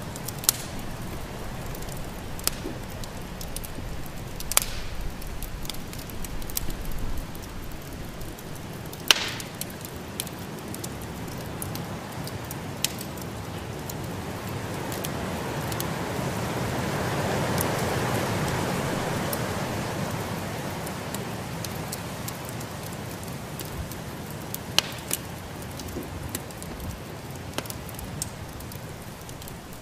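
Wood fire crackling, with scattered sharp pops over a steady hiss. Midway a gust of storm wind swells up and dies away.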